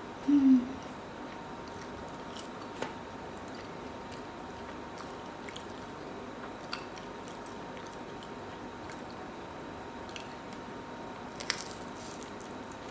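A person chewing and biting food close to the microphone: sparse small crunching clicks over a steady hiss. A brief loud low hum comes just after the start.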